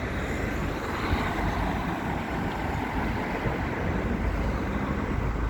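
Road traffic going past close by, a steady rush of engines and tyres, with wind rumbling on the microphone.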